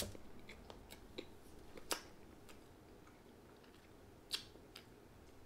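Faint chewing of a dense, chewy soft pretzel: scattered small mouth clicks and smacks over quiet room tone.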